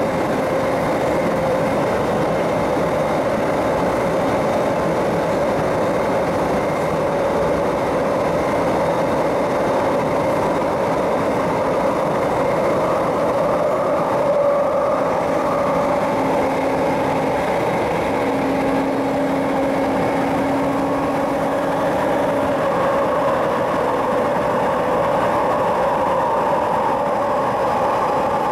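MTR East Rail Line MLR electric multiple unit running in service, heard from inside the car: steady running and track noise with several steady whining tones. A lower hum joins for a few seconds past the middle.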